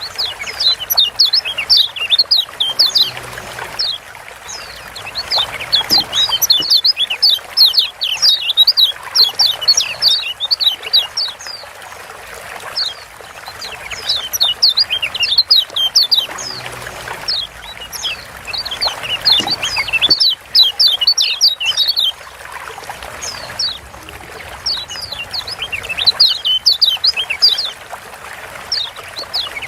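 Lombok yellow white-eye (kecial kuning, a Zosterops white-eye) giving its rapid 'ciak' chattering calls: fast runs of short, high, down-slurred notes in bursts of several seconds with short pauses between. Underneath is a steady trickling hiss like running water.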